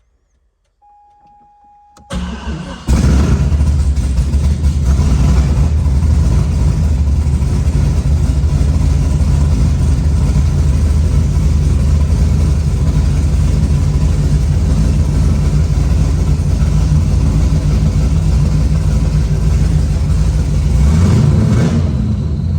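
C6 Corvette's V8 cranked by the starter after a faint short tone, catching about three seconds in and then running steadily; near the end it revs up, rising in pitch. The owner says it sounded really weird.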